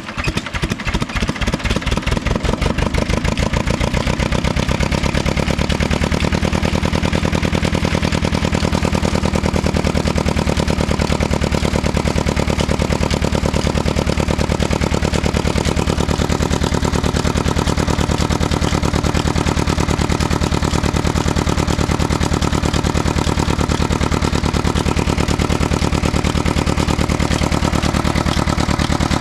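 Old 35 hp diesel tubewell engine just after starting: its firing strokes, slow and separate at first, quicken over the first few seconds and it settles into a steady run.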